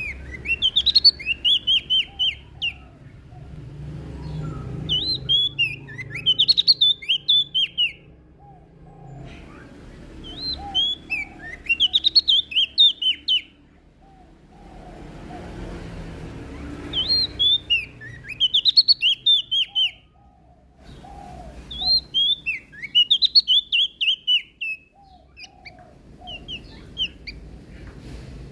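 Prenjak daun (leaf warbler) singing: bursts of quick, high, sweeping notes lasting two to three seconds, repeated about every five seconds, with soft, lower notes in between.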